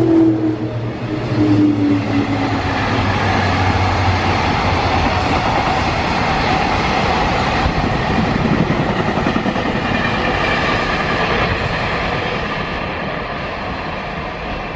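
Freight train passing: a whine from the locomotive falls in pitch as it goes by in the first couple of seconds, then the wagons roll past with a steady rumble and clatter that slowly fades.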